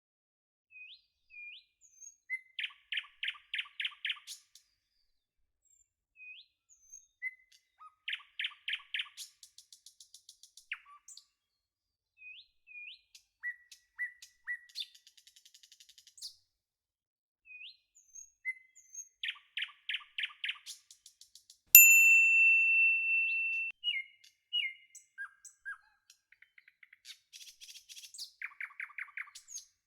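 Birds singing: short rising chirps and quick rattling trills that repeat in groups, with one long steady whistled note about two-thirds of the way through, the loudest sound.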